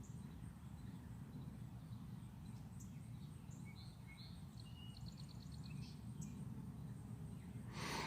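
Faint, scattered songbird chirps and one short trill at the feeders, over a steady low background rumble; a brief whoosh near the end.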